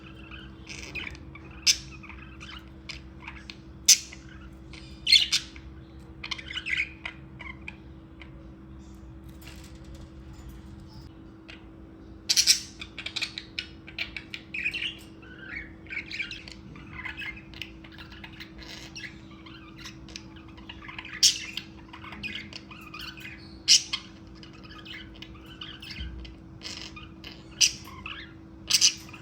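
Pet budgerigars chirping and chattering in short, irregular high calls, broken by several sharp, loud squawks. A faint steady hum runs underneath.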